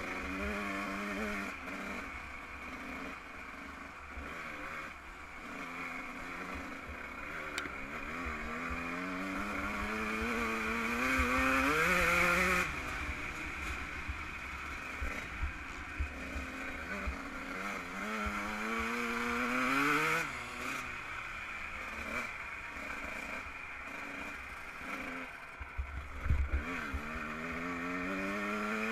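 Yamaha YZ125 two-stroke motocross engine under hard riding, its revs climbing steadily and dropping off sharply about three times, with wind rushing over the microphone. A few low thumps come near the end.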